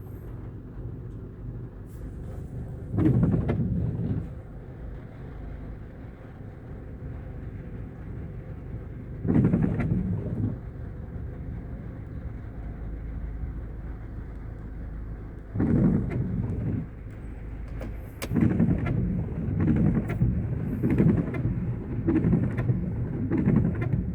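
Steady rainfall hiss with repeated low rumbles lasting about a second each, coming every few seconds and more often in the last quarter.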